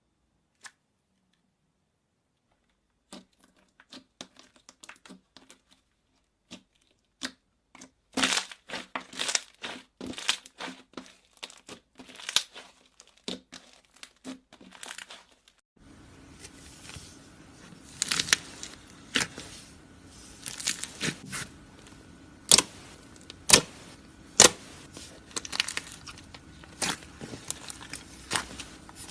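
Slime being squished and pressed by hand, giving irregular sticky clicks and crackles. It starts sparse and gets busier from about eight seconds in, with a faint steady hum underneath from about halfway.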